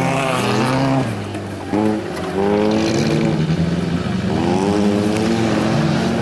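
Dirt-track stock car engines revving hard, the note climbing and falling through the gears several times, with a short lull about a second in.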